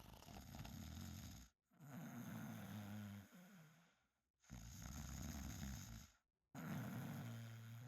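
A person snoring: about four snores, each lasting one and a half to two seconds, with short gaps between them.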